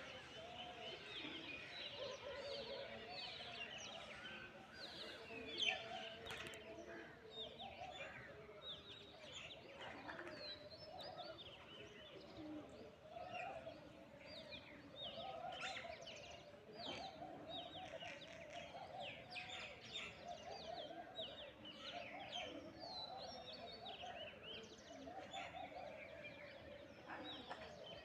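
A dense chorus of many birds chirping at once, quick overlapping calls over a lower, continuous chattering. One short sharp knock about six seconds in.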